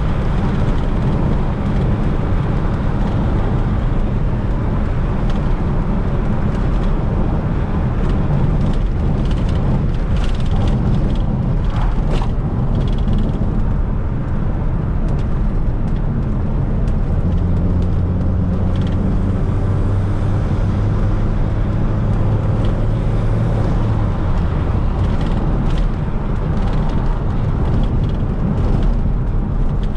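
Fiat Coupe 16V Turbo's turbocharged four-cylinder engine running as the car is driven, with steady road noise. The engine note holds one even pitch for several seconds past the middle.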